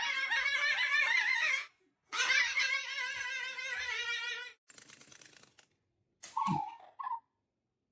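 A pet animal giving two long warbling calls with a quick tremble in pitch, the second longer than the first, followed by a faint rustle and a short call dropping in pitch near the end.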